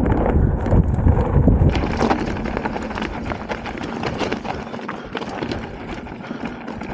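Mountain bike rolling over rocky trail: a fast, irregular clatter of tyres, chain and frame rattling over stones. Wind buffets the camera microphone with a low rumble for the first second or two.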